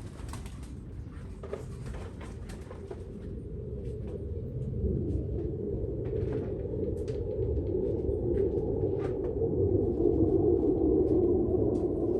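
Pigeons cooing over a low rumble, the cooing building and growing louder from about halfway through, with a few faint sharp clicks.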